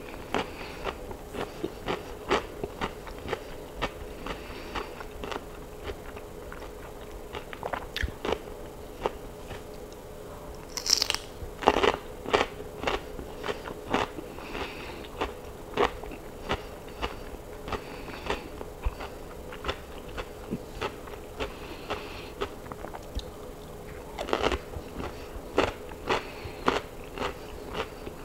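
Crisp crunching and chewing of raw cucumber close to a clip-on microphone: short sharp crunches about two a second, with a brief high hiss and a louder bite about eleven to twelve seconds in.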